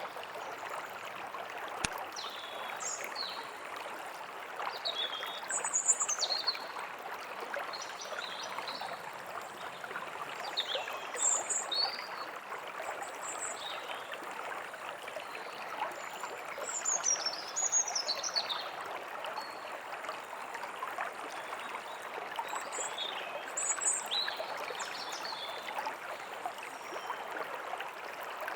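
A stream running steadily, with birds giving short chirps and quick gliding calls over it every second or two.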